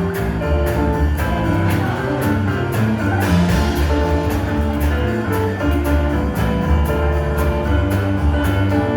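Band music with a steady drum beat under sustained bass and melody notes, without singing.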